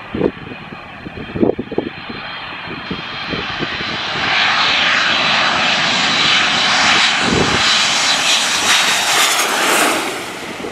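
Airplane engines passing low overhead on a landing approach. The noise swells about four seconds in, stays loud, and eases near the end. Wind buffets the microphone in the first seconds.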